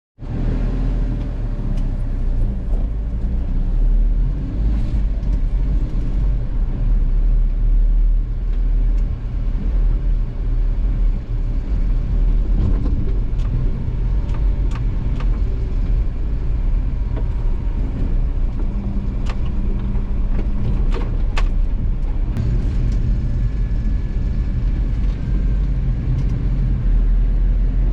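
Motor vehicle engine running steadily with a low rumble, with a few sharp clicks now and then.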